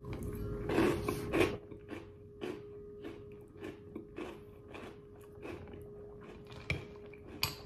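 Chewing a mouthful of Dunkin' Mocha Latte cereal, a crunchy cocoa-puff-like cereal in milk. The loudest crunching comes in the first second and a half, then it settles into short crunches about twice a second.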